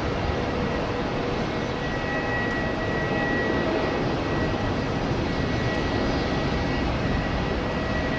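Boeing 777 jet engines at takeoff power during the climb-out, a steady roar with a faint high whine running through it.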